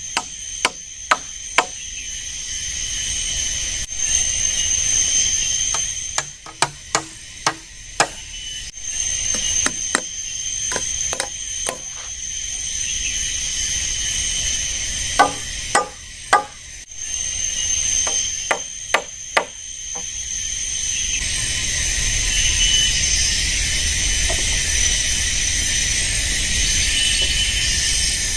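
Clusters of sharp blows of a tool striking wood, several in quick succession with pauses between, against a steady high-pitched insect chorus of the tropical forest.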